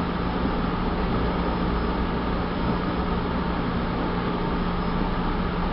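Steady running noise heard inside a moving passenger train carriage: wheels rolling on the rails in an even rumble and hiss, with a steady low hum underneath.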